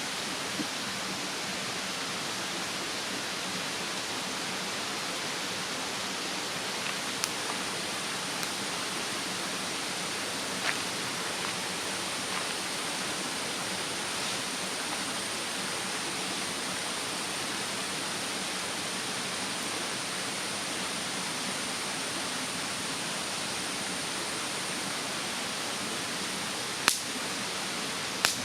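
Wood bonfire in a fire stand burning over the steady rushing of a mountain stream, with a handful of sharp pops from the burning wood; the two loudest pops come near the end.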